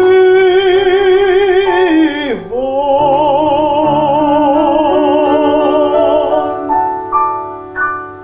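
Mezzo-soprano singing a romance with piano: a long held note with vibrato swoops down about two seconds in, then a higher note is held with vibrato until near the end. A few piano chords then ring out and fade.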